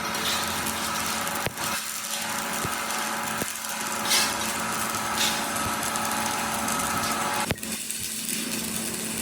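A workshop power tool running steadily with a constant hum, with a few sharp clicks and two brief louder bursts of hiss about four and five seconds in.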